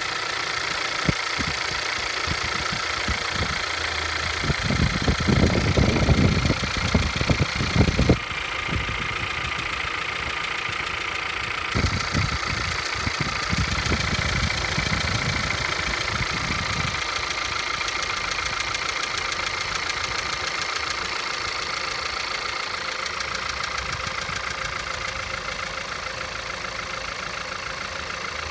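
1.2 TSI EA211 petrol engine idling on a cold start, with a fast, steady knock at idle. Louder low rumbling comes in twice, about four seconds in and again about twelve seconds in.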